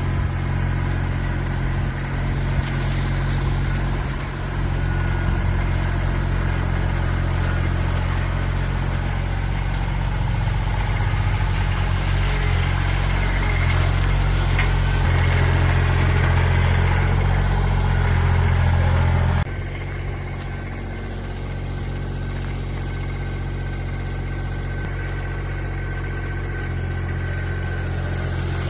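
Engine running steadily at a constant speed, a low, even drone. About two-thirds of the way through it changes abruptly and becomes slightly quieter.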